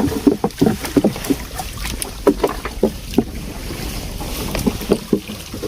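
Wind rumbling on the microphone over irregular splashing and knocking of water against a small boat.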